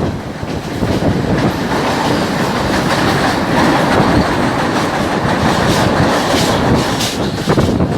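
Train running on the track: a steady, loud rumble of wheels on rails, with sharper clacks in the second half.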